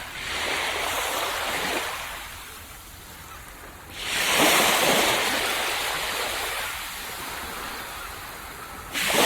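Ocean waves breaking and washing up a beach: a smaller wave at the start, the loudest one about four seconds in, fading slowly, and another breaking near the end.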